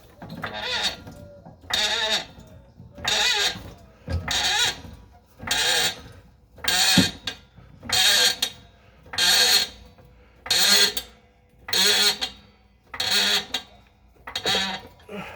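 A hand tool worked in about a dozen even, rasping strokes, roughly one a second, while working on the exhaust under the car.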